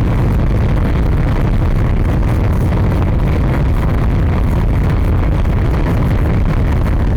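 Fire burning steadily: a loud, even rumble, heaviest in the low end, with no crackles or pops standing out.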